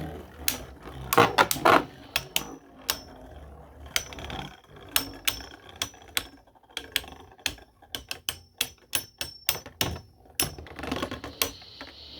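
Spinning Beyblade tops clashing in a stadium: sharp plastic clacks at an irregular pace, with a dense, loud flurry of hits about a second in and a run of quicker repeated hits later on.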